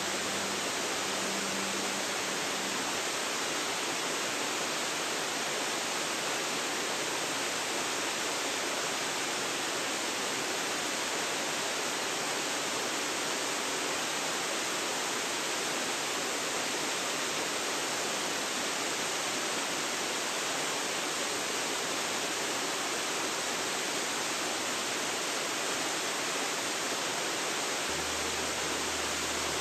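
Waterfall: falling water pouring steadily, an even rushing noise with no breaks.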